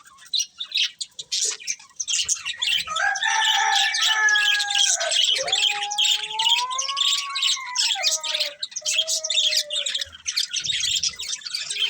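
Budgerigars chirping and chattering in quick, dense high notes. A few longer, lower gliding tones join in the middle.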